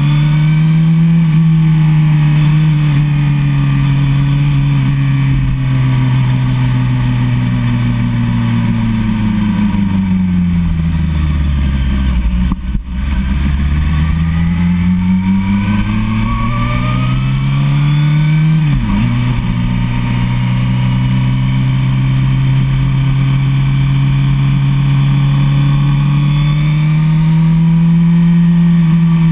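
Suzuki SRAD sportbike's inline-four engine running on the road. Its pitch holds, sinks as the bike slows with a brief dip in loudness around the lowest point, then climbs under throttle. Just past the middle it drops sharply at a gear change and rises slowly again.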